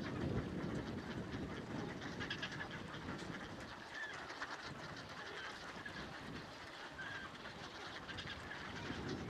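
Faint, short calls of waterbirds on a pond, a few seconds apart, over a low steady background rumble.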